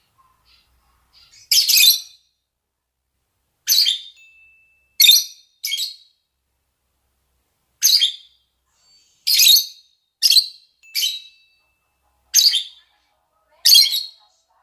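Lovebirds (rosy-faced and Fischer's) giving their mating calls: about ten short, high-pitched calls, some in quick pairs, separated by gaps of a second or two.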